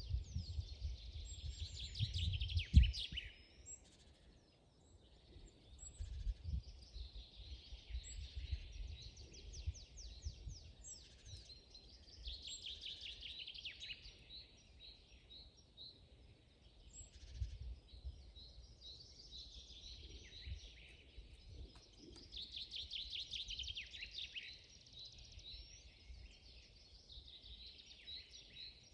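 Songbirds singing in a forest, several overlapping rapid trilled phrases repeating every few seconds. Under them runs a low rumble, loudest in the first three seconds and ending in a single thump.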